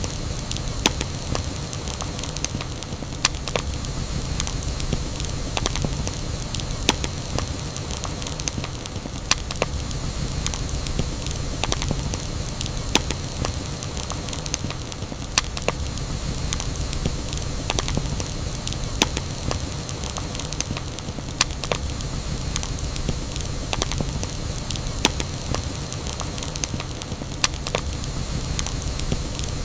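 Campfire burning with a steady low rush and frequent, irregular sharp crackles and pops of burning wood.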